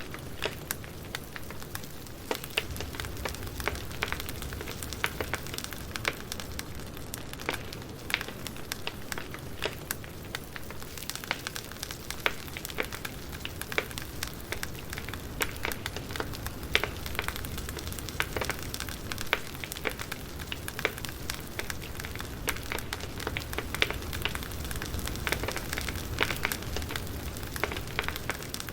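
Wood fire crackling: a steady hiss and low rumble with frequent irregular sharp pops and snaps.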